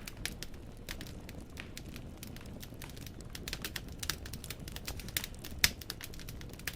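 Wood fire burning in a fireplace: logs crackling and popping at irregular intervals over a low steady rumble of the flames, with one sharper pop about five and a half seconds in.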